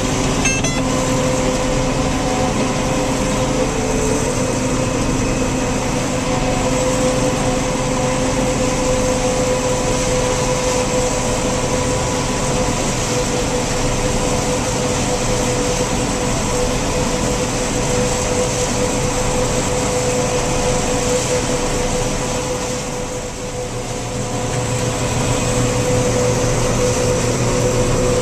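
Heavy farm machinery running steadily, an engine drone with a steady whine on top. It eases briefly about 23 seconds in, then comes back with a stronger low hum.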